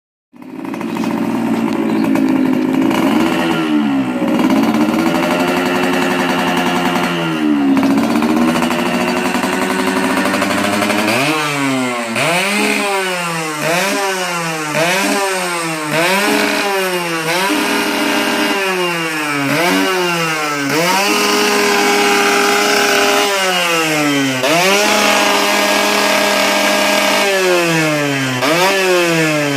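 Yamaha RXZ's single-cylinder two-stroke engine running, first idling with two short blips of the throttle, then revved up and let fall back again and again, about once a second, with a couple of longer held revs in the second half.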